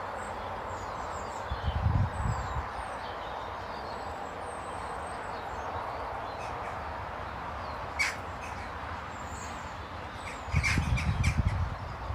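Wild birds calling around a garden bird table: scattered short high chirps, with a few sharper, louder calls about eight seconds in and again near the end. Low rumbles, like wind on the microphone, come twice.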